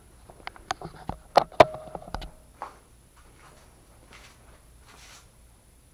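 Sharp metal clinks and knocks as a steel wrench and tools are handled on a work surface, one of them ringing briefly. Then a few faint scraping strokes of sandpaper on rusty metal.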